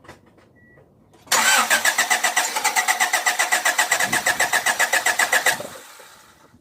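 Honda del Sol's engine being cranked by the starter for about four seconds on the first start attempt after a camshaft replacement and timing belt reinstall, a rapid even pulsing that starts suddenly and cuts off.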